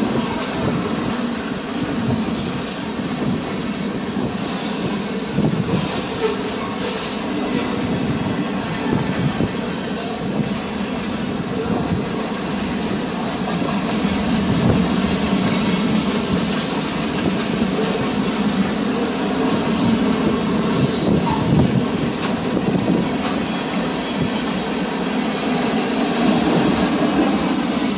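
CSX freight train rolling past: a steady, loud rumble of cars on the rails, with scattered clicks of wheels over the track.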